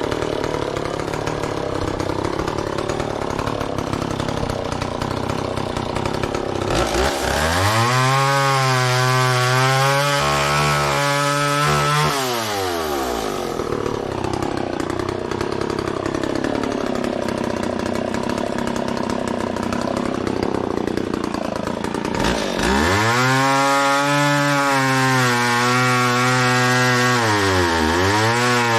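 McCulloch Mac 10-10 two-stroke chainsaw idling, then revved to full throttle for about five seconds and let back down to idle. About two-thirds of the way in it revs up again and holds high, with a brief dip near the end, as it saws through storm-downed wood.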